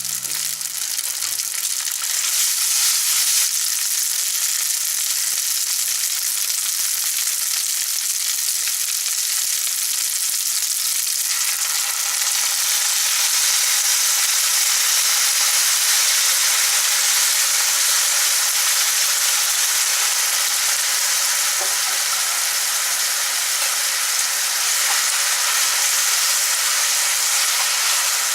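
Pad thai frying in a pan with a steady sizzle, which gets a little louder about two seconds in.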